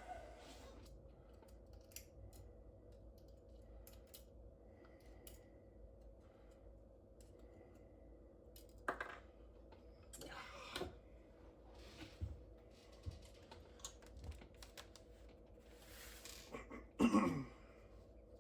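Scattered light clicks and metal taps of hand tools and small engine parts being worked during an Audi A4 valve-spring replacement, over a faint steady hum. A louder short sound with a falling pitch comes near the end.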